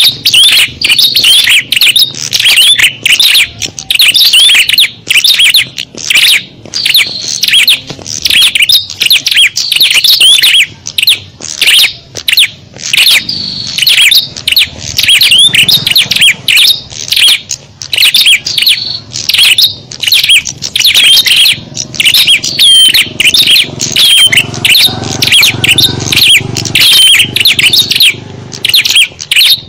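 Dense, non-stop chirping and twittering of many small songbirds, rapid short sweeping notes overlapping one another: an agitated small-bird chorus used as a lure call to draw in small birds.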